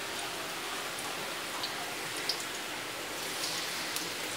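Small flour-battered mairo fish deep-frying in hot oil in an aluminium wok: a steady sizzling hiss with a few scattered sharp crackles.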